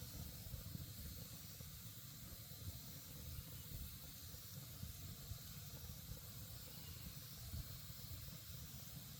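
Campfire burning: a steady low hiss with a few soft pops.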